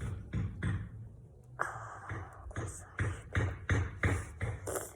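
Campfire being fanned by hand, each stroke a short whooshing thump of air, about three a second.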